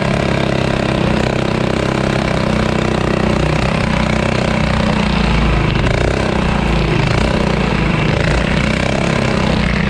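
Small engine of a mini bike running steadily under way, its pitch shifting only slightly.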